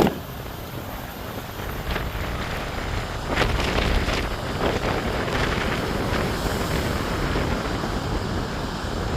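Storm-force wind of a bomb cyclone buffeting the microphone, rumbling and gusting, with heavy surf churning underneath. A sharp click comes right at the start, and the gusts peak about three and a half to five seconds in.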